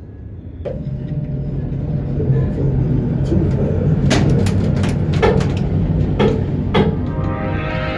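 Dodge Charger Scat Pack's 392 Hemi V8 starting suddenly and running loudly on a cold start, with several sharp cracks over the steady engine note.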